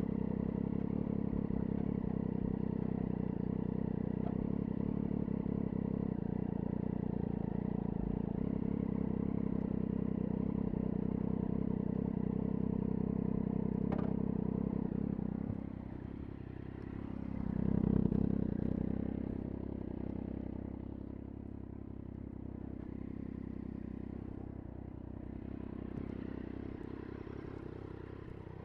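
Triumph Daytona 675's three-cylinder engine through an IXIL aftermarket exhaust, running steadily, then dropping off about halfway through, with a brief swell a couple of seconds later before settling quieter.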